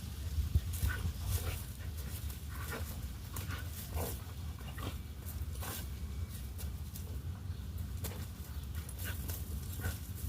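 Border collie panting in short, irregular breaths, over a steady low rumble.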